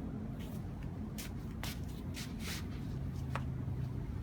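A low steady hum with about half a dozen short rustling swishes scattered through it, like something being handled or moved about.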